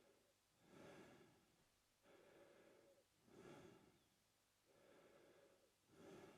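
A man breathing slowly and evenly through his mouth, faint. Short, louder breaths come near the start, about halfway through and near the end. Between them are longer, softer breaths, making about one full in-and-out every two and a half seconds.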